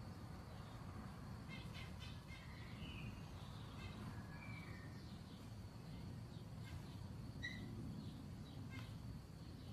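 Faint, scattered bird chirps over a low, steady rumble.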